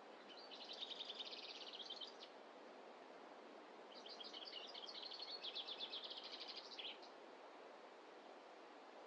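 A small songbird singing a rapid, high trill twice, the first phrase about two seconds long and the second about three, over a faint, steady background hiss.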